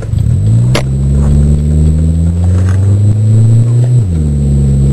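Car engine pulling under acceleration, its note climbing steadily in one gear, then falling sharply about four seconds in; the automatic transmission is holding the gear too long, which the driver complains of. A single sharp click about a second in.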